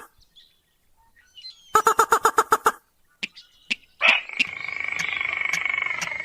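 Lure-call recording of a sintar rail: a rapid run of about ten pulsed notes about two seconds in, followed by a few single clicks. About four seconds in, a steady droning chorus with regular ticks takes over.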